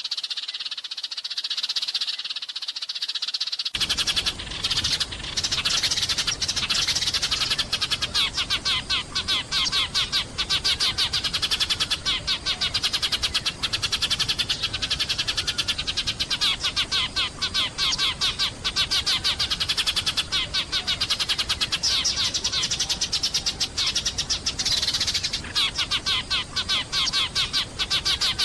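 Sparrows chirping in a rapid, continuous stream of short, high notes. About four seconds in, a low steady hiss suddenly comes in beneath them.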